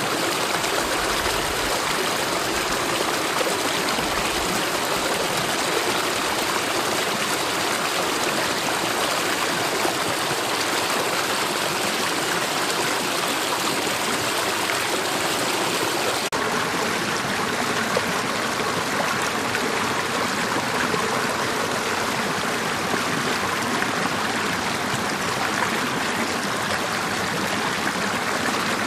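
Mountain valley stream flowing steadily: an even, constant rush of running water.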